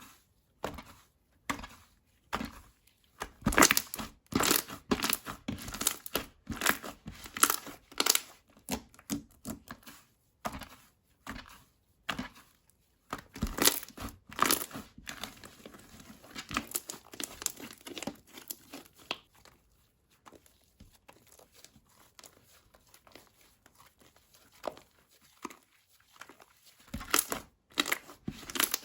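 Slime being squished and worked by hand, giving uneven runs of sharp crackling clicks and pops. The crackling is quieter and finer through the middle and loud again near the end.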